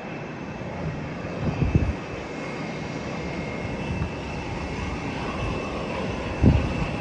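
Airliner engines running steadily with a faint high whine. Gusts of wind buffet the microphone, twice, the louder one near the end.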